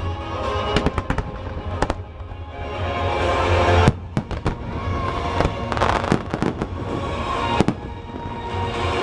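Aerial fireworks bursting in clusters of sharp bangs, a few about a second in, the loudest just before four seconds in and a dense run around six seconds in, with music playing under them.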